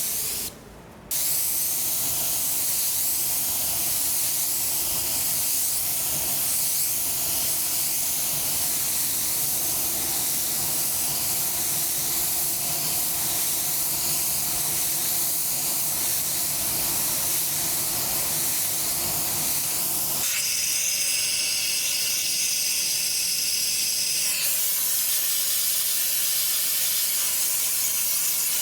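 Steady hissing of air-powered panel-prep or spray work on a car body, cutting out briefly about half a second in. About twenty seconds in the hiss changes to a brighter, banded sound for a few seconds.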